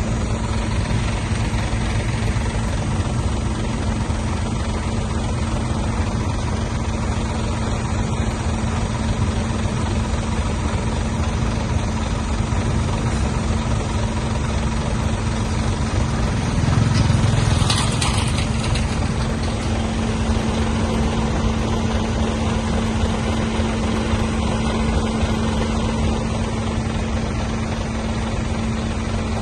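Heavy diesel engine of an earthmoving machine running steadily with a constant drone, and a brief louder surge with a hiss about seventeen seconds in.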